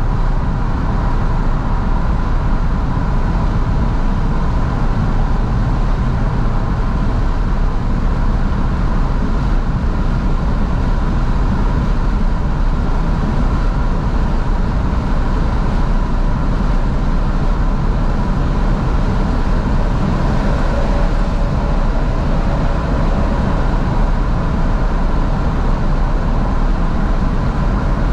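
A 2012 Fiat 500S driving steadily, heard from inside the cabin with the windows wide open: a loud, even rumble of road and wind noise over the running engine.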